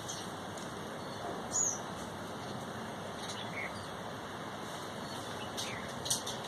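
Birds chirping sparsely: a few short, high chirps over steady background noise, the loudest about a second and a half in and a quick cluster near the end.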